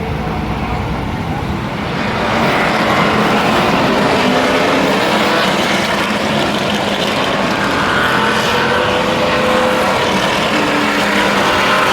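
NASCAR Craftsman Truck Series race trucks' V8 engines running at speed, a loud steady engine noise that grows louder about two seconds in and stays up.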